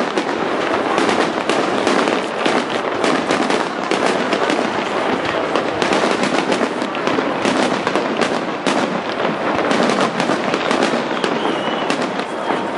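Fireworks display: a dense, unbroken barrage of bangs and crackles, many reports each second.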